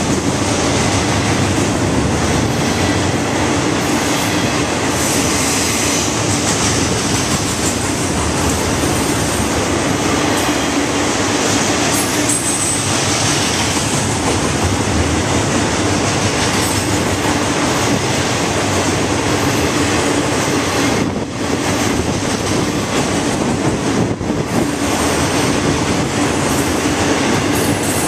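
Freight cars of an FEC freight train rolling past close by: a loud, steady rumble and rattle of steel wheels on the rails, with an even low hum underneath.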